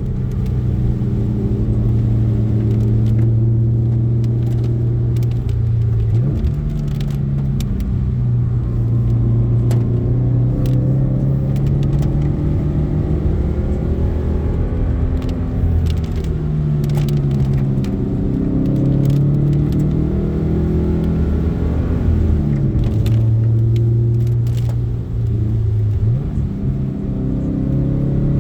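Car engine heard from inside the cabin, running hard under steady load with a low drone, its pitch changing sharply twice, about six seconds in and again near the end, as gears change.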